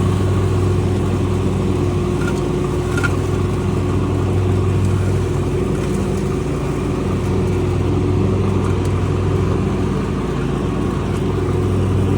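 A vehicle engine running steadily at an even pitch, a low hum with no revving.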